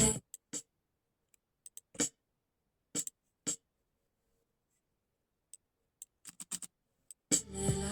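Music playback stops at once, leaving near silence broken by scattered, irregular sharp clicks and taps, a few louder ones around two and three seconds in; the music starts again near the end.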